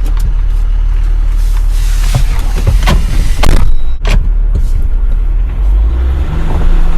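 Inside a Jeep's cabin while driving a rough dirt road: a steady low rumble of engine and tyres, broken by several sharp knocks and rattles.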